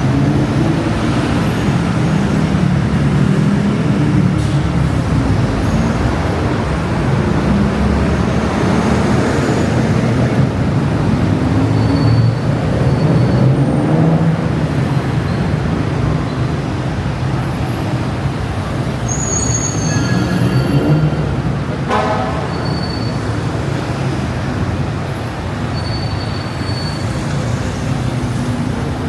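Loud, steady road traffic: buses and cars running by with a continuous low engine rumble.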